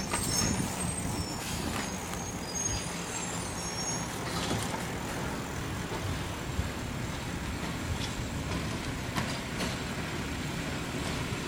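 Garbage truck engine running steadily, with a few short high squeaks in the first few seconds.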